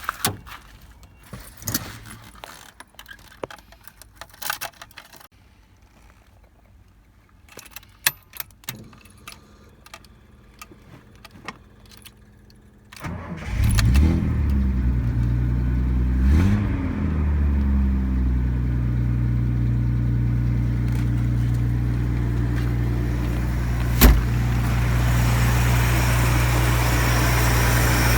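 Scattered clicks and knocks for about the first half, then the Nissan Gloria 230's engine cranks and starts about 13 seconds in, revs briefly and settles into a steady idle. A single sharp click sounds near the end.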